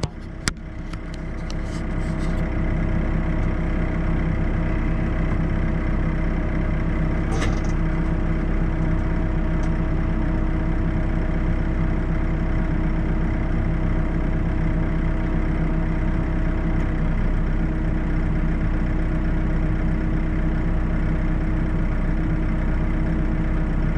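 Heavy diesel engine running steadily, swelling over the first two seconds and then holding an even note. A few sharp clicks come right at the start.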